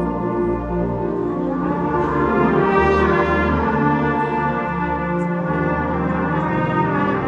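Concert band playing slow, sustained chords, with the brass to the fore.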